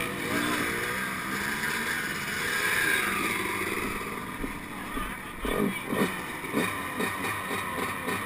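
Yamaha YZ125 125cc two-stroke dirt bike engine revving up and down under race throttle, its pitch rising over the first three seconds. A run of thumps follows in the second half.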